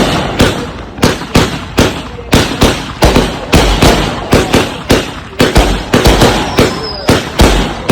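Consumer fireworks cake firing shot after shot: sharp bangs about three a second, each with a short echoing tail.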